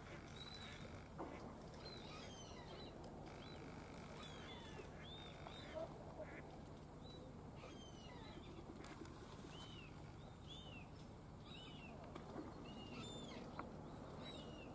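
Faint bird calls: short high chirps, each rising and then falling, repeating about once or twice a second.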